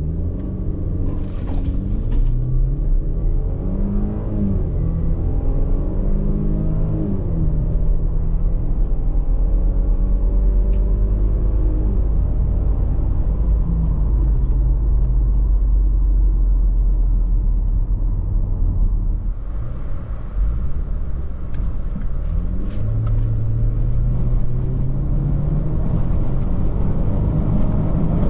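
Range Rover Velar P250's 2.0-litre turbocharged four-cylinder petrol engine being driven, its pitch rising and dropping back several times as it pulls through the gears, over a heavy low road rumble.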